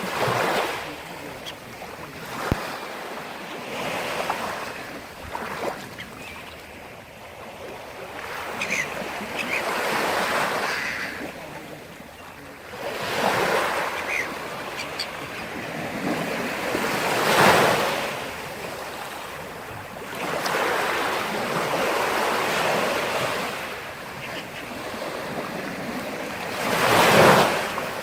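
Sea surf: waves breaking and washing ashore, the sound swelling and fading in slow surges every few seconds, with the loudest breakers about halfway through and again near the end.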